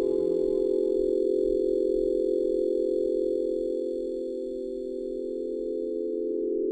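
A steady meditation drone of several close, unchanging pitches, its higher overtones dropping away about a second in and again near the end, with a slight dip and wobble in the middle. It is the sustained tone for the heart (fourth) chakra.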